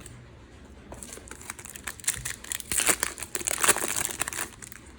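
A foil trading-card packet being torn open and crinkled by hand, a dense crackling that builds about a second in and is loudest near the end.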